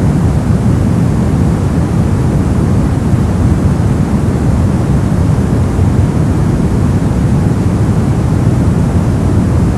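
Continuous brown noise: a steady, even rumbling hiss weighted to the low end, with no variation.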